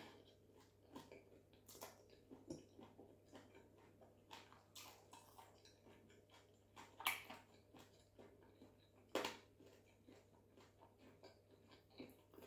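Faint chewing and mouth sounds of a person eating chicken: scattered soft wet clicks and smacks, two a little louder about seven and nine seconds in.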